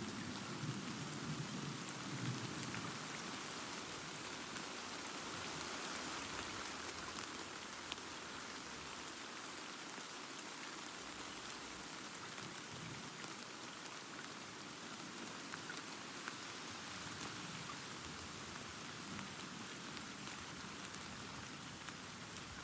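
Steady rain falling, an even hiss with fine scattered drop ticks. A low thunder rumble fades away over the first few seconds.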